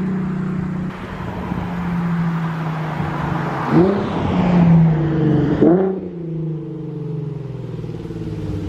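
Infiniti Q50 exhaust with an axle-back muffler delete, running steadily. About four seconds in and again about a second and a half later, the pitch rises sharply and drops straight back, then the car settles into a lower, steady drone.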